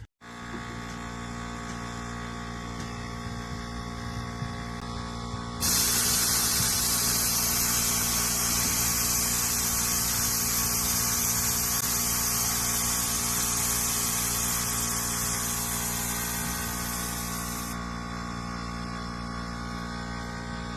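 A motor running steadily with a hum of many even tones. About six seconds in, a loud high hiss starts, like air or spray, and cuts off suddenly some twelve seconds later.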